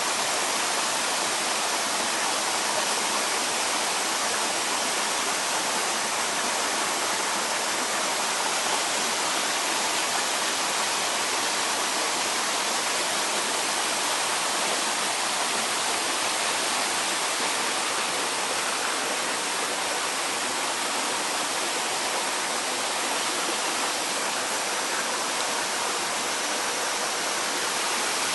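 Mountain stream rushing steadily over rocks in a valley, a constant even wash of water.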